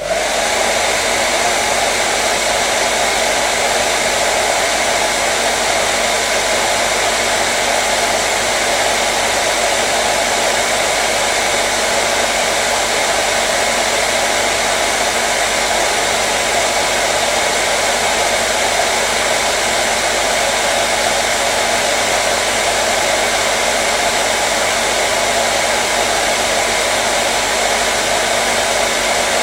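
Hair dryer running steadily: a continuous airy rush with a faint motor hum, used as soothing white noise for babies.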